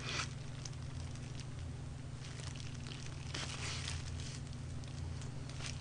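Faint close-miked chewing and biting of crispy fried chicken, with soft crackles and small wet clicks, over a steady low hum.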